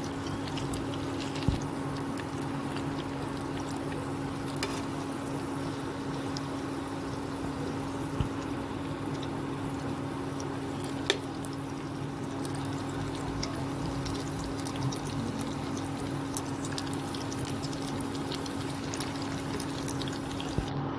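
Shredded potato, carrot and egg patties frying in oil in a nonstick pan, a steady sizzle with a low hum underneath. There are a few light clicks of the spatula and fork against the pan as the patties are turned.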